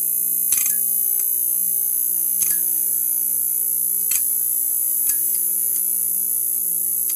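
Neon sign's electrical buzz: a steady low hum under a bright high hiss, broken by irregular sharp crackles about five times.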